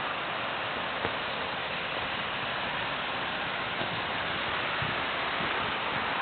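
Steady hiss of background noise, with a faint click about a second in.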